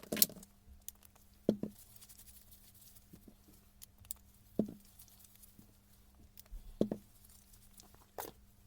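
Parts of a Hilti rotary hammer being handled during its repair: about five separate knocks and clicks, a second or more apart, over a steady low hum.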